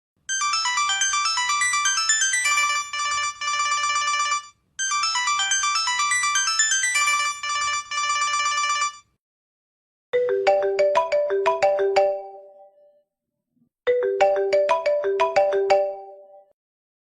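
Phone ringtones. First a fast, high-pitched melody of many quick notes plays twice. Then a lower, slower melody whose notes ring on and fade plays twice, with a short pause between the repeats.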